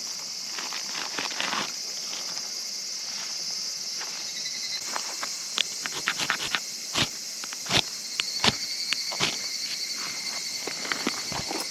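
Steady insect chorus buzzing high in pitch, with irregular sharp clicks and knocks scattered over it, coming more often in the second half.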